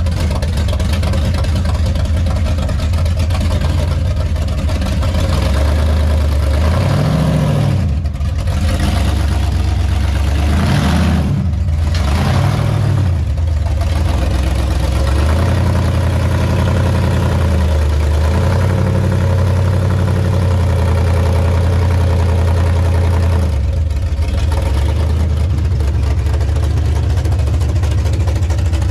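Custom hot-rod V8 engine idling, with a few short revs that rise and fall in pitch early on, then a steady idle.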